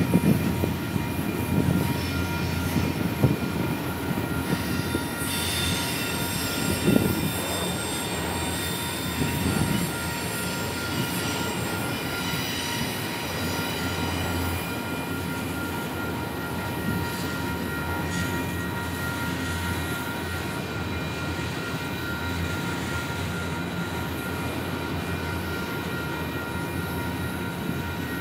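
Freight train cars, boxcars and autoracks, rolling past: a steady rumble of steel wheels on rail. There are a few heavier knocks in the first ten seconds, and faint, high, steady squeal tones from the wheels run underneath.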